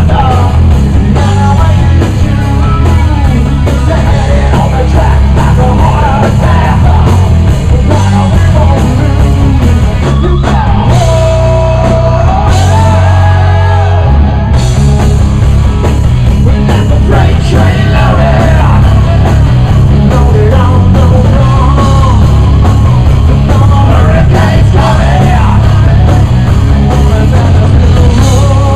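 Live rock band playing a song loudly, with drums and instruments throughout and a melodic lead line bending in pitch midway.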